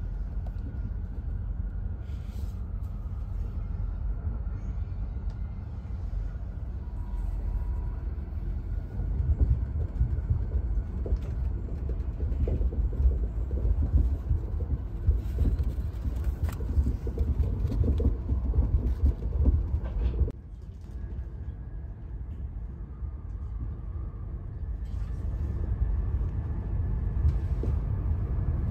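Shinkansen bullet train running, heard from inside the passenger cabin as a steady low rumble. The rumble drops suddenly about twenty seconds in, then slowly builds again.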